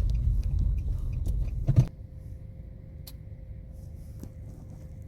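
Car cabin noise while driving: a low rumble from the engine and road that cuts off abruptly with a knock about two seconds in. A much quieter low hum with a faint steady tone and a few light ticks follows.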